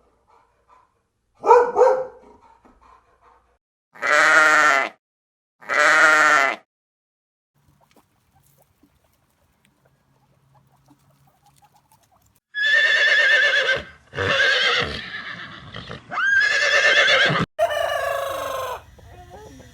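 Goats bleating: a short call about a second and a half in, two long wavering bleats around four and six seconds, a quiet gap, then a run of loud, wavering bleats in the last third.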